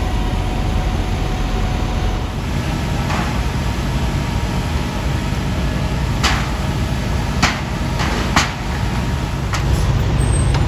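A vehicle engine running steadily with a low rumble, broken by about five sharp knocks or pops spread over the second half.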